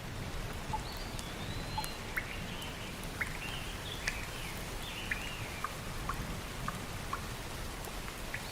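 Steady rain with scattered sharp drips. A bird sings a run of warbling chirps over the rain for about the first two-thirds.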